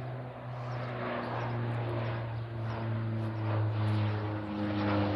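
Twin-turboprop Saab 340 flying past, its propellers and engines making a steady low drone with several held tones that shift slightly in pitch, growing louder.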